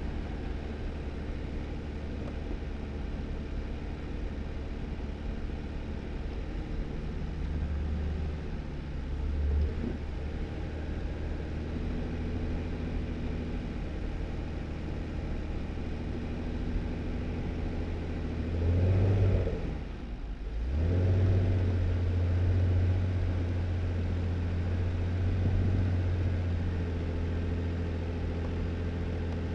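2018 Jeep Wrangler driving along, its engine running steadily. About two-thirds of the way through, the engine note rises, drops away for a moment and picks up again, running louder afterwards.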